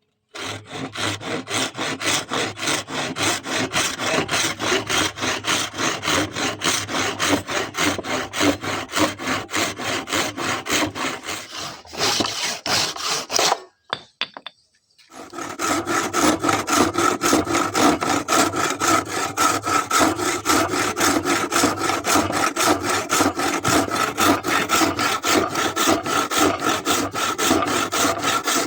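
Hand saw worked back and forth in quick, even strokes, stopping for about a second near the middle and then carrying on.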